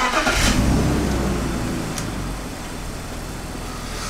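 BMW 5 Series engine starting on petrol: it catches with a sudden onset, flares up in revs for about half a second, then settles back to a steady idle around 800 rpm.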